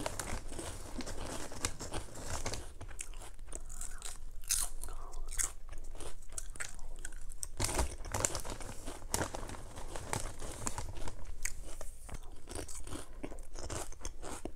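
A person chewing and biting crunchy chips, an irregular run of crunches with no pause.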